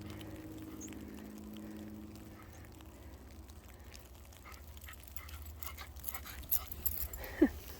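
Footsteps in deep fresh snow, a string of soft crunching steps that grows busier in the second half, with a short falling squeak near the end. A faint steady hum sits underneath at the start.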